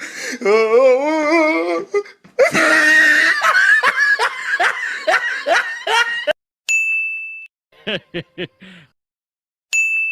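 Edited meme laughter sound effects played back to back: a wavering laugh, then a longer hearty laugh, a short chime, a brief clipped burst of laughs, and a second chime near the end.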